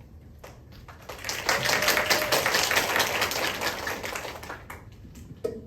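Audience applauding, swelling about a second in and dying away. Near the end a guitar starts picking single notes.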